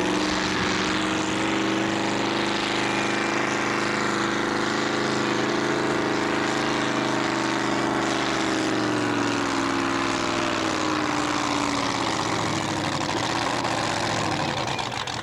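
Pulling tractor's engine running hard under load as it drags the weight sled. Its pitch holds for the first half, then falls steadily from about eight seconds in as the engine lugs down under the load.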